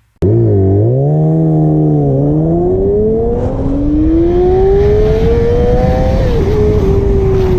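Sport motorcycle engine accelerating hard: the revs climb in long rising pulls, dropping briefly at gear changes about two seconds in and again about six seconds in, then hold steady near the end.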